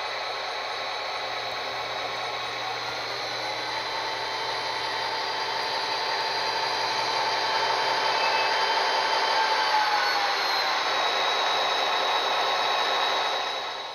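Model train running on its track: a steady motor whine over wheel and rail noise that grows slowly louder, drops in pitch about ten seconds in, and falls away sharply near the end.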